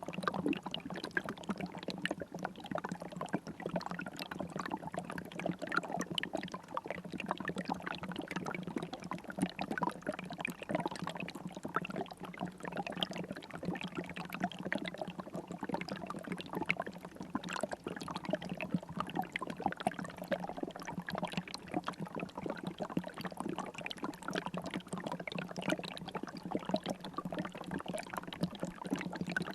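River water flowing and trickling steadily, a constant babble of small splashes, with a steady low hum beneath it.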